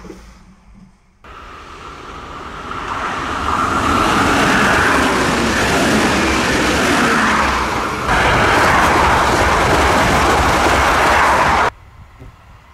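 Passenger multiple-unit train passing close by at speed: a loud, even rush of wheel and rail noise that swells over the first few seconds, steps up about eight seconds in, and cuts off suddenly near the end.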